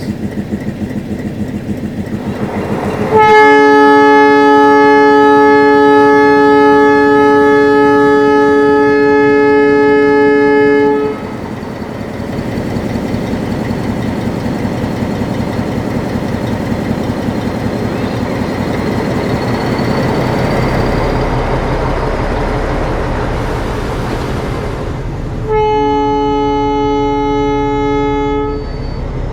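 Metre-gauge diesel locomotive sounding its horn in one long blast of about eight seconds, then a second, shorter blast of about three seconds near the end. Between the blasts the engine runs steadily, its low rumble growing louder after about twenty seconds.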